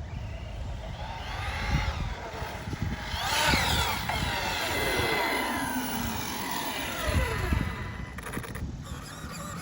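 A 6S brushless electric RC truck's motor and drivetrain whining, the pitch rising sharply about three seconds in as it speeds up, then falling away over the next few seconds, over a low rumble.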